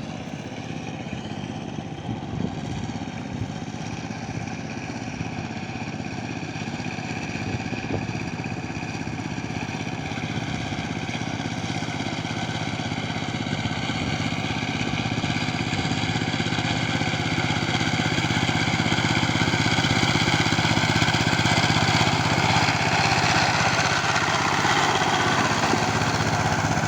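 A Sifeng 12-horsepower power tiller's single-cylinder diesel engine running steadily as it tills a paddy field, growing steadily louder over the second half.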